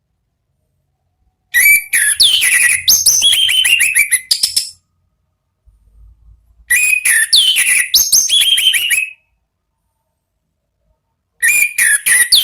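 Orange-headed thrush singing: three quick phrases of varied, sliding whistled notes, each a few seconds long, with pauses of about two seconds between them.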